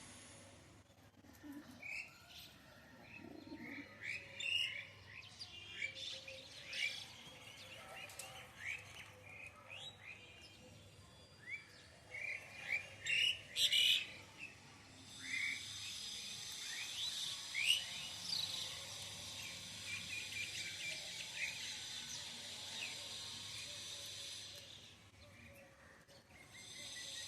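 Small birds chirping in many short, separate calls. In the second half a steady high-pitched hiss joins them for about ten seconds while the chirps carry on.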